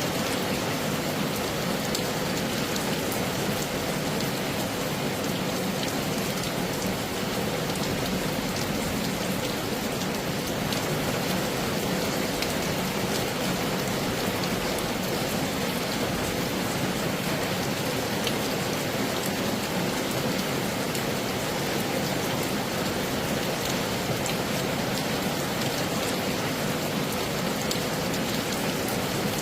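Heavy rain falling steadily: a dense, even hiss with many small, sharp drop ticks.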